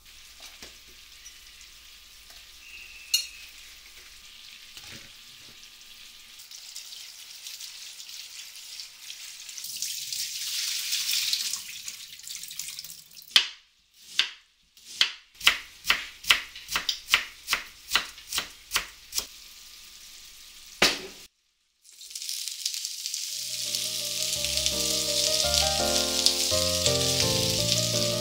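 Food sizzling in a hot pan, swelling for a few seconds; then a kitchen knife chopping on a wooden cutting board, a run of about fifteen quick strokes; then small green peppers sizzling in a square frying pan, with soft music coming in over it.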